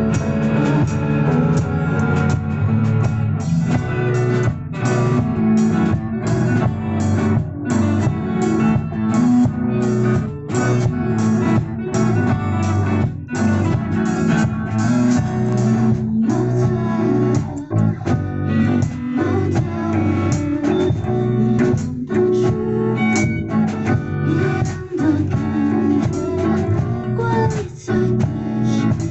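Guitar-led rock band music, with guitars, bass and drums keeping a steady beat and no singing.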